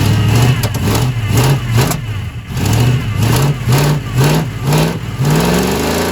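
1980 Chevy K30 pickup's V8 engine running rough and revved in short repeated blips, its note rising and falling about nine times. It sounds unhappy as it struggles to run on first start-up.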